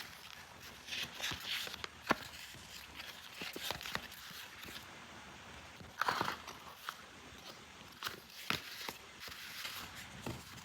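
Small plastic toy pieces and packaging being handled: scattered sharp clicks and taps with short crinkly rustles, one of the louder rustles about six seconds in.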